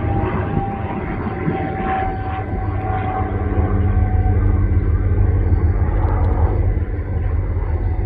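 Diesel freight locomotive running with a steady low rumble and a few held engine tones.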